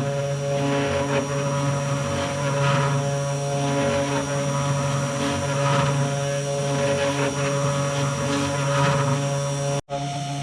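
Budget desktop CNC router carving wood: the spindle and stepper motors keep up a steady hum and whine, swelling and easing as the cutter moves through its passes. The sound breaks off for an instant near the end.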